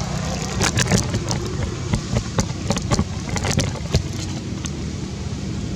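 A steady low hum with many short, sharp clicks and taps scattered through it.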